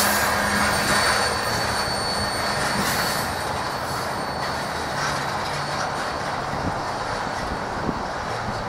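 Norfolk Southern train cars rolling past with a steady rumble, with a faint high wheel squeal that fades over the first few seconds.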